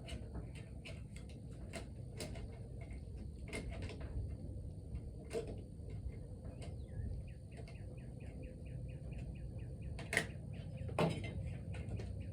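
Scattered small clicks and taps of hand tools (pliers, screwdriver) on the valve parts of a small engine's cylinder head, with two louder knocks near the end. A quick run of short high chirps, about four a second, comes in the middle.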